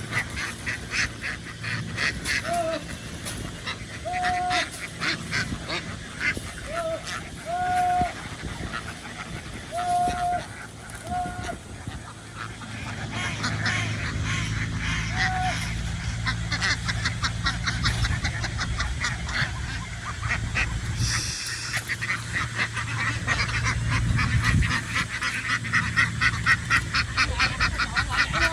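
A large flock of farmed ducks quacking in a dense, rapid chatter, with short level-pitched honking calls standing out in the first half. A low steady hum rises underneath from about halfway and holds to the end.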